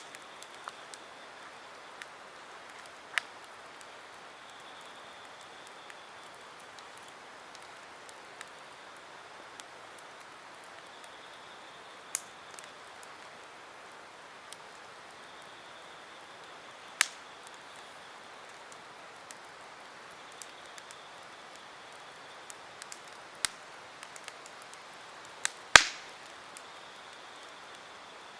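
Wood campfire burning with a soft steady hiss and scattered sharp crackles and pops, the loudest near the end.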